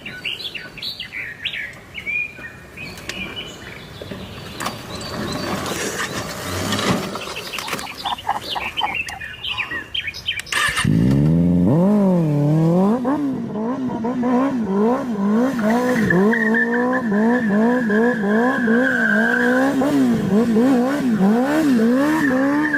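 Motorcycle engine starting about halfway through, climbing in pitch and then revved up and down about once a second. Before it there are high chirps over low background noise.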